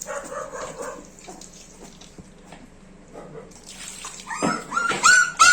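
Puppy whimpering during its bath: quiet at first, then a run of short, high whines, several a second, starting about four seconds in.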